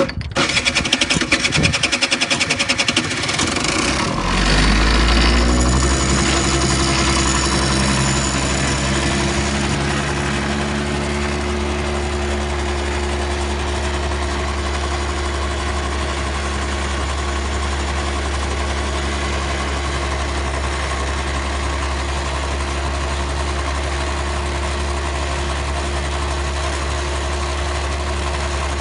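Small engine of a student-built three-wheeled Shell eco-car, firing in rapid uneven pulses for the first few seconds, then settling about four seconds in into a steady, even running note as the car is driven.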